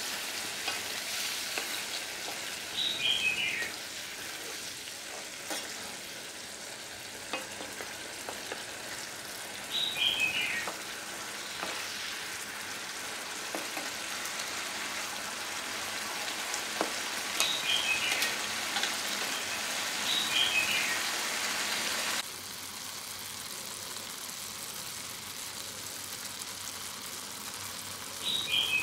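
Tomato and chili sauce sizzling and bubbling in a non-stick frying pan, stirred now and then with a wooden spatula, with a few light knocks on the pan. A short descending chirp, the loudest sound, recurs about five times. The sizzle turns quieter about 22 seconds in.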